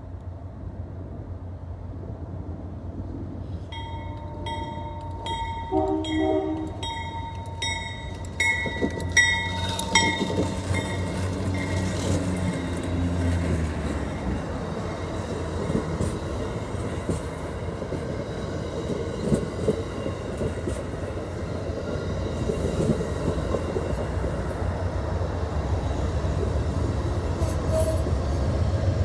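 Amtrak passenger train approaching and passing. For several seconds its horn sounds and a bell rings about twice a second. Then the cars roll by with a steady rumble and wheel clatter, growing louder near the end.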